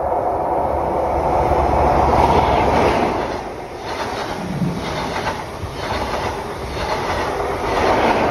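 Network Rail's yellow New Measurement Train, an HST with Class 43 power cars, passing at close range. A deep diesel rumble comes at the start and again near the end. In between, the coaches' wheels clatter over the rail joints in an even rhythm.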